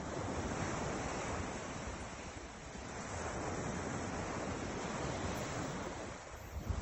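Ocean surf washing on the shore in a steady hiss that swells twice, with some wind buffeting the microphone.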